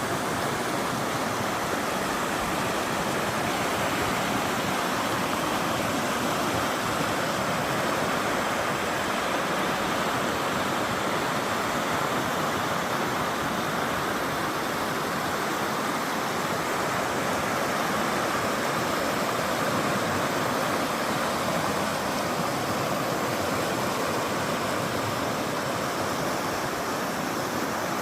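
Mountain stream rushing over rocks: a steady, even rush of flowing water that doesn't change.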